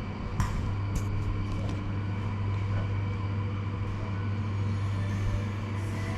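A steady low electric buzz with a couple of light clicks about half a second and a second in.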